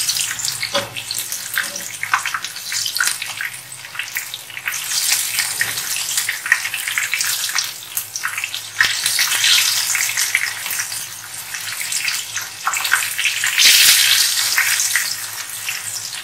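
Besan-battered mutton chops frying in hot oil in a pan: a dense crackling sizzle that rises and falls in waves as the pieces are turned over to fry the second side.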